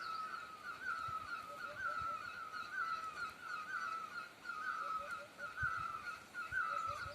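Bird calling over and over, a steady run of short wavering chirps at about two a second, with a few fainter lower notes now and then.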